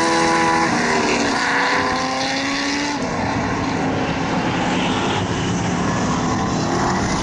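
Race car engines running hard on track, their pitch sliding as the revs change. From about three seconds in, the sound turns rougher and noisier.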